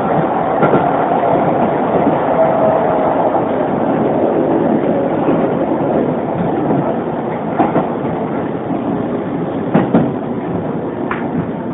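Running noise of a Keisei 3500-series renewed electric car (DeHa 3552) heard from aboard: a steady rumble of wheels and running gear on the track, with a few sharp clacks over rail joints in the second half. It gets slightly quieter toward the end.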